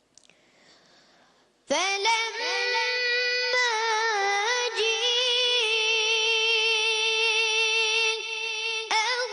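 A child's high voice reciting the Quran in the melodic, ornamented tajweed style. It comes in after a near-silent pause of under two seconds and holds one long, wavering note.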